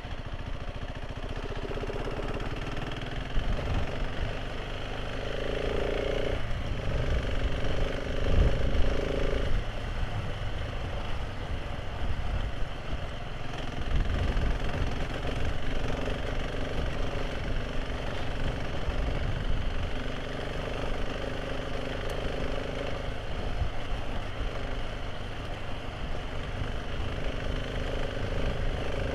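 Motorcycle engine running while riding, a steady low rumble with an engine tone that swells, strongest about a quarter of the way in and again near the end.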